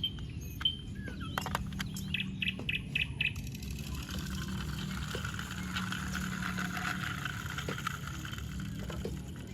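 Birds chirping, including a quick run of about five short notes, over a faint steady hum and a few light clicks.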